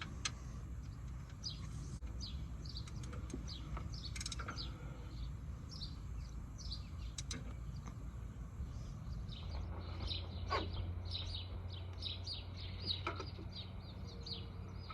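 Small birds chirping: a long run of short, quick downward chirps repeating throughout, busier in the second half. A few faint sharp clicks sound now and then.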